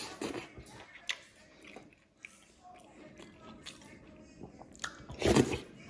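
Close-up chewing and wet mouth sounds of a person eating soft buckwheat dhido by hand, with scattered small clicks and smacks, then one loud breathy noise a little after five seconds in.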